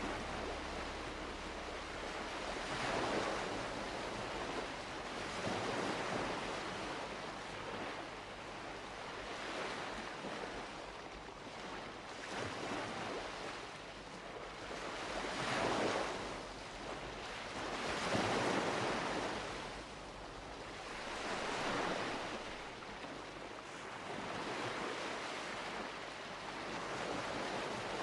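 Sea waves breaking and washing onto a shore, the surf swelling and easing every few seconds.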